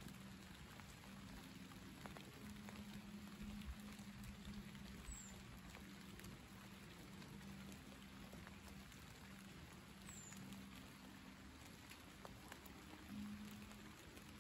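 Light summer rain falling on leaves: a faint, steady patter with scattered soft drip ticks, under a faint low hum that comes and goes.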